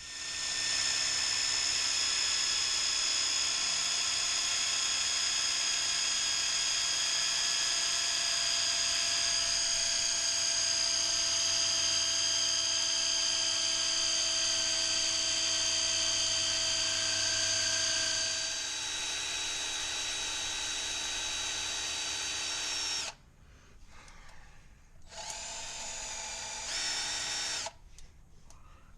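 Power-tool-driven fluid transfer pump running, drawing old oil out of the rear differential through the fill hole: a steady motor whine for about 23 seconds whose tone shifts and drops a little in level after about 18 seconds. It then stops and runs again in two short bursts near the end.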